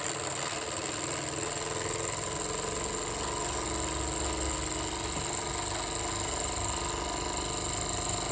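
Jensen 75 toy live steam engine running on steam, its small piston engine and flywheel giving a rapid, even mechanical beat at a steady pace.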